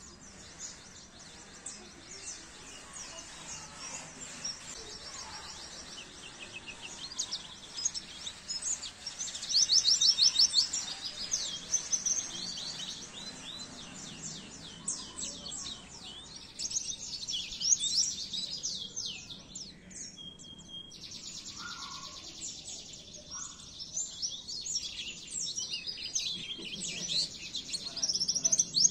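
Pleci (white-eye) songbird singing: fast, high-pitched warbling trills and chirps, loudest about a third of the way in, with a brief lull past the middle.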